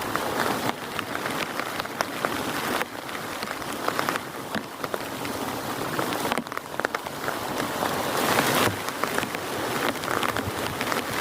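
Heavy rain falling, with many individual drops striking close by; its intensity rises and falls every few seconds.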